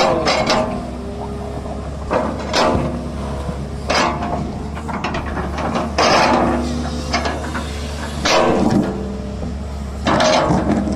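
Diesel engine of heavy earthmoving machinery running steadily, with loud mechanical clanking and grinding bursts about every two seconds.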